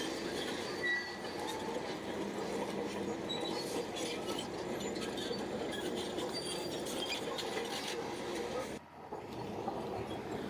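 Crawler bulldozer working: steady machine noise with its steel tracks clanking and squeaking, briefly cutting out near the end.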